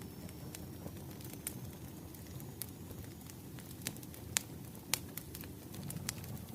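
Wood fire burning: irregular sharp crackles and pops over a steady low rumble, with the loudest pops about four and five seconds in.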